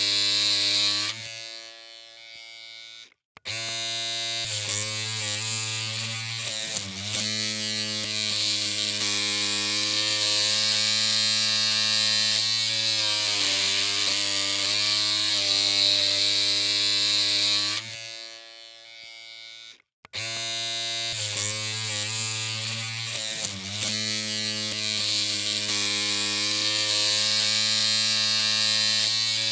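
Electric hair clippers humming with a steady buzz. The hum fades and cuts out twice, about a second in and again at about 18 seconds, restarting each time within two seconds with a brief wavering in pitch.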